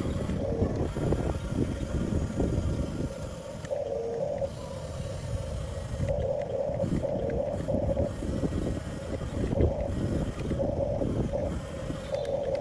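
Electric drive motors of a 1/14-scale Huina RC bulldozer, whining at one steady pitch in repeated short spells as it is driven, over a continuous low rough rumbling noise.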